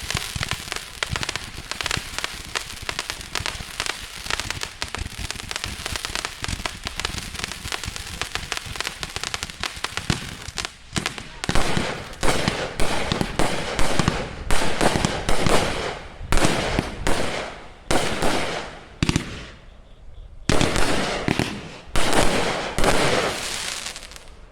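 Three 500-gram Roman candle-style firework cakes firing: first about ten seconds of dense, rapid popping, then a run of separate louder shots and bursts, one or two a second.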